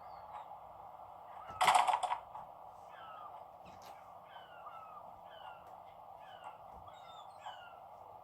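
Recorded outdoor ambience of small birds chirping in short, repeated falling notes over a steady background hiss, played back through a small Bluetooth speaker. A single loud, short sound cuts in about one and a half seconds in.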